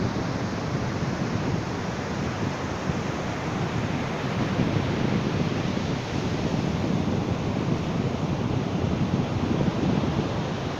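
Ocean surf washing onto a beach: a steady, low rushing wash with slow, gentle swells in loudness.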